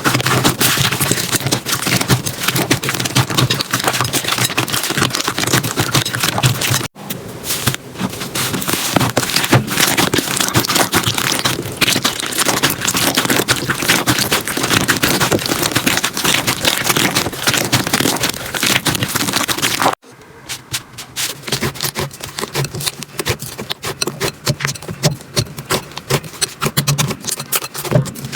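Slime being squeezed and worked, a dense run of crackling, popping clicks. The sound breaks off sharply about seven seconds in and again about twenty seconds in, each time starting again with a new stretch of slime; the last stretch is quieter and sparser.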